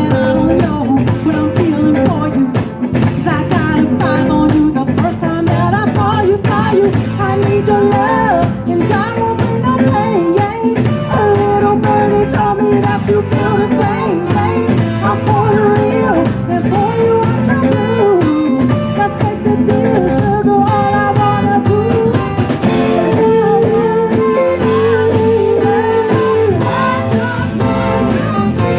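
A band playing a song: a voice singing over guitar with percussion.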